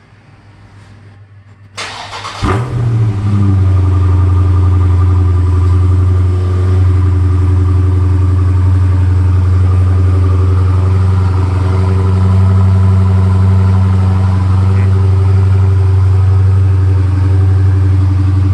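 2017 Dodge Charger Scat Pack's 6.4-litre HEMI V8 with its stock exhaust, cold-started after sitting a week. It cranks about two seconds in and catches with a brief flare of revs. It then settles into a loud, steady idle.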